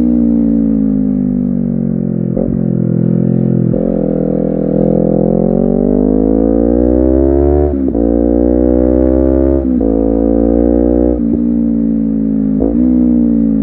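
Honda CBR250RR's parallel-twin engine and exhaust under way. The engine note climbs and falls, with a short sharp break about six times, as through gear changes.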